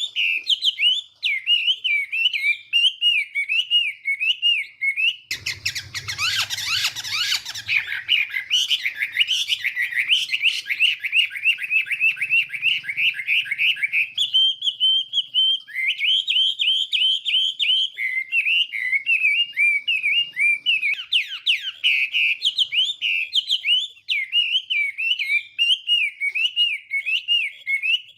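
Chinese hwamei (melodious laughingthrush) singing a long, unbroken song of rapid, varied whistled phrases. A louder, denser stretch with a low rumble under it comes about six seconds in.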